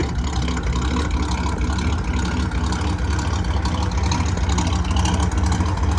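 1957 Chevrolet Bel Air's 283 Power Pack small-block V8 with a four-barrel carburettor idling steadily through its dual exhaust.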